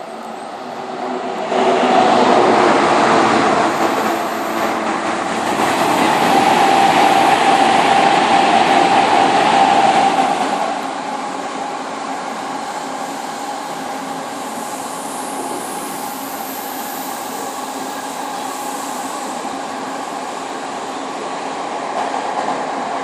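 A train passing at speed: the sound rises sharply about two seconds in and stays loud for about eight seconds with a steady whine, then drops to a quieter steady rumble.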